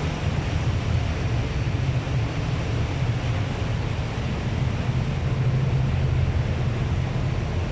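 A sailboat's inboard engine running steadily under way, heard in its engine room as a loud, even low drone with a rough mechanical rumble over it.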